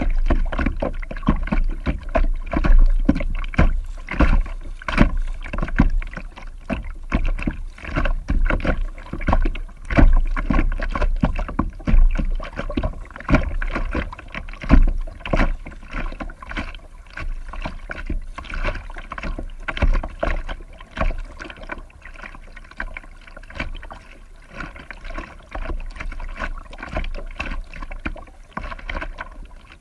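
A kayak being paddled on a creek: irregular splashing and knocking of the paddle in the water over a low rumble, easing a little in the second half.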